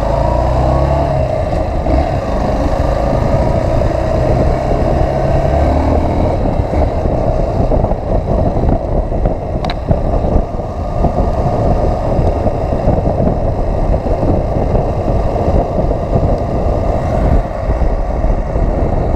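Motorcycle engine running at a steady road speed, with steady rushing noise over it. There is one sharp click about ten seconds in.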